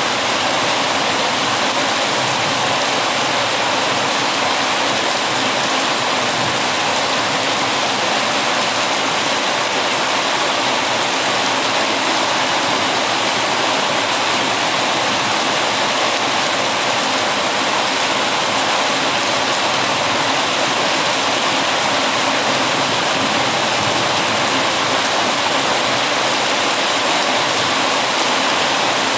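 Heavy rain falling in a steady, unbroken rush with no letup.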